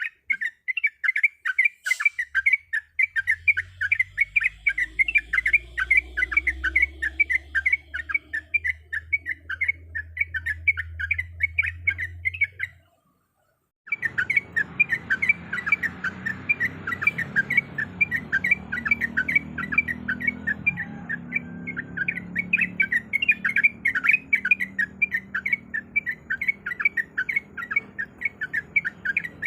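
Yellow-vented bulbul (trucuk) chattering in a fast, unbroken run of short repeated notes, several a second. The song cuts out abruptly for about a second midway, then resumes at the same pace.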